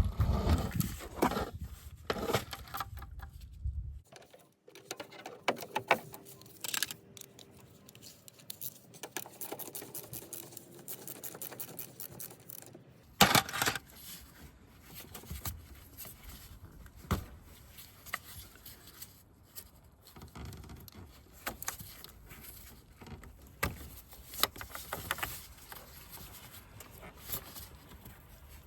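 Hand tools clinking and scraping, with scattered clicks and knocks from working on a car's air filter box to remove it. A sharper knock comes about a third of the way through.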